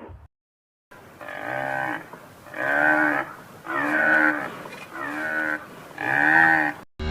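A large animal calling five times in a row, about a second apart, each call a short rise-and-fall of pitch.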